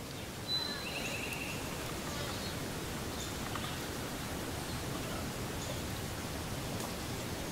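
Steady outdoor woodland ambience with a constant noise hiss, a high thin whistle and a short rapid trill from a songbird about a second in, and a few faint chirps after.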